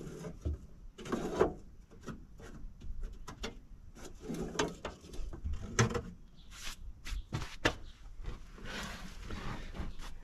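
Irregular knocks, clicks and scraping rustles of hands and tools clearing packed bark and sawdust out of a circular sawmill's dust-collector blower, which is plugged up. The saw is not running.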